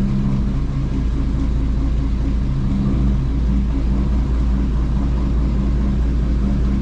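A Dutch barge's inboard engine running slowly at a steady pitch, a deep, even drone with a rumble beneath it.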